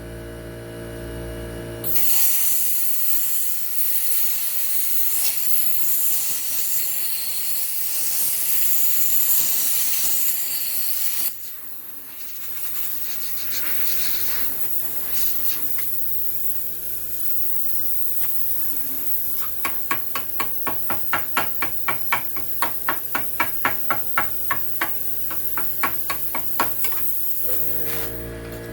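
Plasma cutter arc hissing loudly as it burns into a rusted-on steel bolt, cutting off sharply about a third of the way in. It starts again with a quieter crackling hiss, and in the second half a run of rapid, even pops comes at about three or four a second.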